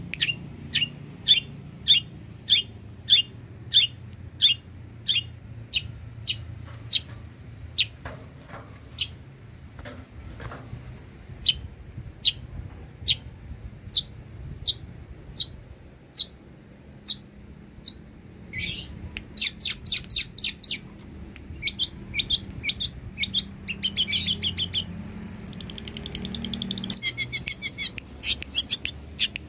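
Long-tailed shrike (cendet) singing: a run of sharp, high, evenly spaced chips about two a second that thin out to slower single notes, then bursts of rapid chattering trills in the last third.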